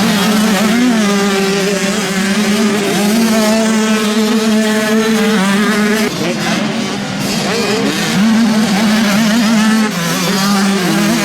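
Motocross bikes' engines running hard at high revs, holding a steady pitch with a break and dip about six seconds in and another shift near ten seconds in as the riders change gear or back off.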